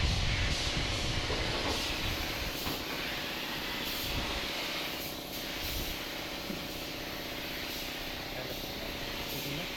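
Steady hissing noise over a low, even machine hum, with no distinct impacts.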